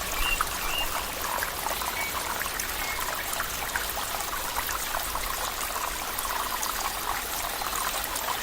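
Flowing water, steadily trickling and splashing like a small stream. A few faint short high chirps come in the first few seconds.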